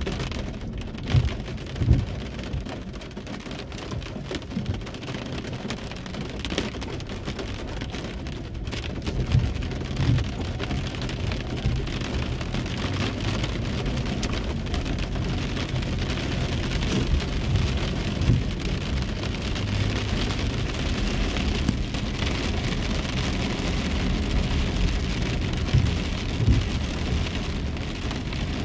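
Steady rain on a car's roof and windshield, heard from inside the cabin over a low rumble. Pairs of short, dull thumps recur about every eight seconds.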